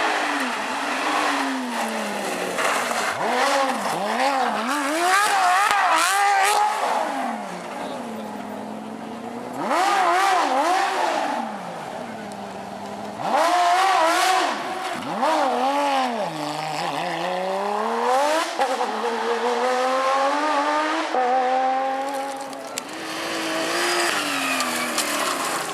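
A Porsche rally car's flat-six engine revving hard on a stage, its pitch climbing and dropping over and over as it changes gear and lifts for corners, with two quieter lulls where it falls back to a low steady note.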